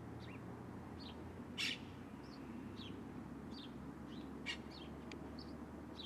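Birds chirping in short, scattered high notes over a steady low hum, with one louder chirp about a second and a half in.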